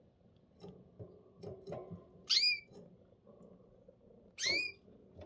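A canary giving two short rising calls, about two seconds apart, after a few soft rustles and clicks of movement in the cage.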